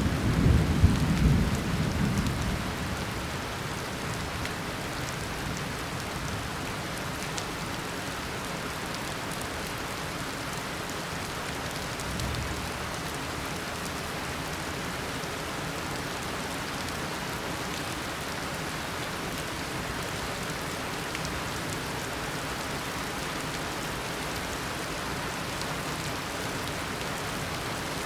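Heavy tropical rain falling steadily, a rumble of thunder dying away in the first couple of seconds.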